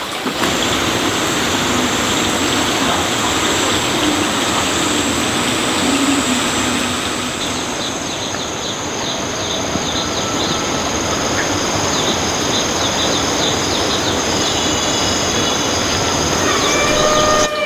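Water rushing steadily, with short high chirps through the middle and a few gliding calls near the end.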